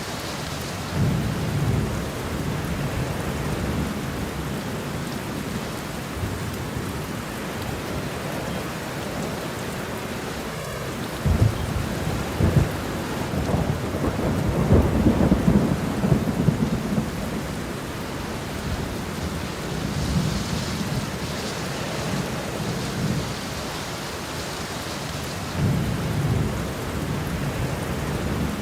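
Steady rain with thunder rolling several times. The biggest rumble comes about halfway through, starting with two sharp cracks, and weaker rolls come near the start and in the last third.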